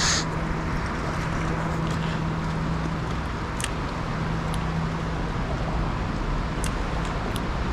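Steady road-traffic noise with a vehicle's low, even engine hum through the first five seconds or so. There is a brief rush of noise at the very start and a few faint ticks later on.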